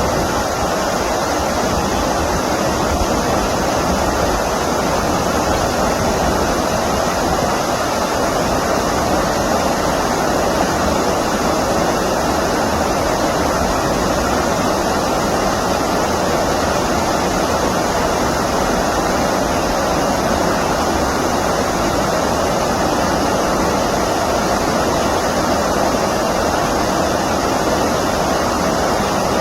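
Steady, loud rushing of flowing stream water.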